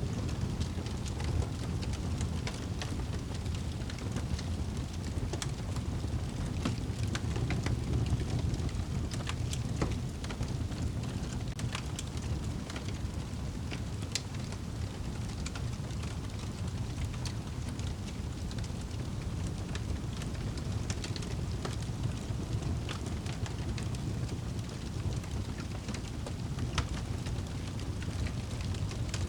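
Wood fire burning in a fireplace: a steady low rumble from the flames with frequent sharp crackles and pops at irregular intervals.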